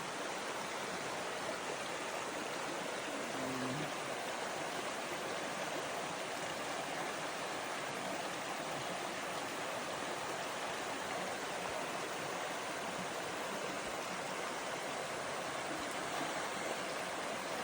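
Water of a small waterfall and stream flowing, a steady, even rush.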